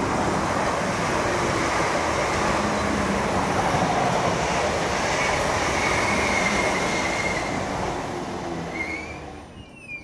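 South Western Railway electric multiple-unit train running through the station: a steady, loud rush of wheels on rail that fades away near the end. A thin wheel squeal comes about halfway through, and short rising squeals just before the end.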